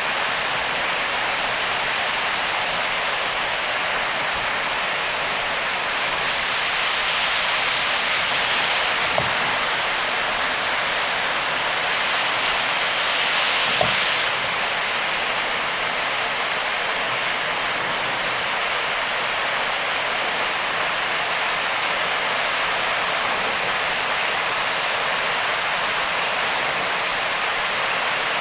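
Heavy rain and tyre spray from a car driving on a waterlogged expressway: a steady rushing hiss. It swells twice for a few seconds, each swell ending with a soft knock.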